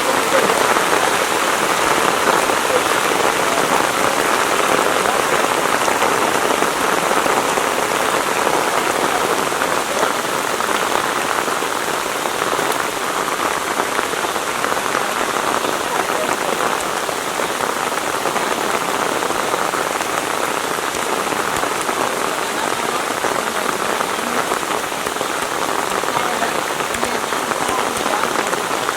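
Steady rain falling, a constant hiss of many drops that stays even throughout.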